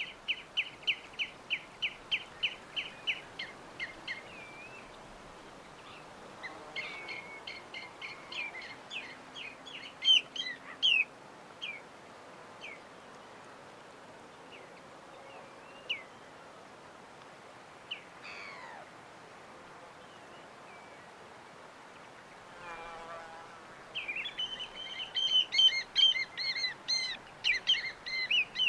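Small birds chirping: a fast run of repeated high chirps, about four a second, at the start, then scattered calls and slurred notes, and dense overlapping chirping near the end. A faint steady background noise lies beneath.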